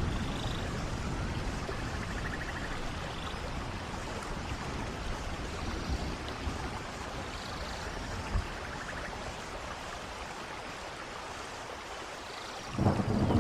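Steady rush of a waterfall and rain, with a few faint short trills over it. Near the end a louder, deeper rush of water comes in.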